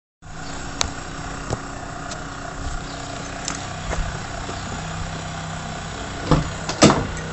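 Car engine running steadily with a low, even rumble, meant to show off its exhaust note. A few sharp knocks or clicks come over it, the loudest two near the end.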